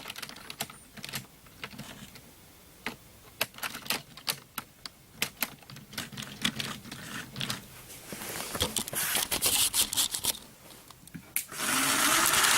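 Irregular light clicks and ticks from a Bachmann model train set. Near the end, the small electric motor of a Bachmann Percy locomotive starts to whir loudly and steadily, with a slight rise in pitch, as the throttle is turned up. Percy is straining to pull a Thomas engine and his wheels are slipping.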